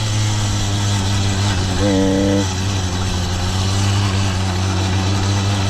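Small two-stroke bicycle kit engine running steadily on a motorized bicycle, with a brief higher tone about two seconds in.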